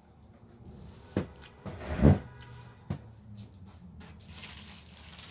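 A few knocks and handling noises. The loudest is a low thump about two seconds in, between a sharper knock just before it and a small click about a second after.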